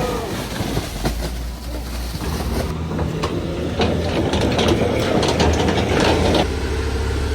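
Road vehicle passing with a low engine rumble and a run of rattling clicks, over a mid-pitched noise that cuts off suddenly near the end.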